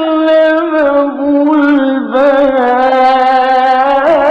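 A male voice reciting the Quran in the slow, melodic mujawwad style, drawing out the words 'ʿallamahu' into long held notes with ornamented melodic turns.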